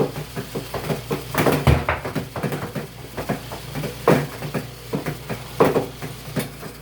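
Irregular knocks, clunks and rustling as a portable washer's spinner and laundry are handled, over a faint low hum.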